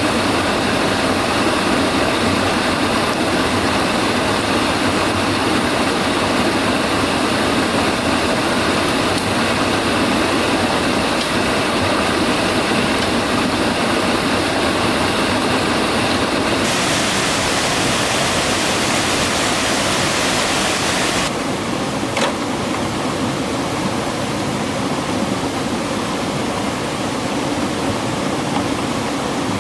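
Steady rushing of a waterfall or fast stream. It turns brighter and hissier for a few seconds just past the halfway point, then settles back a little quieter.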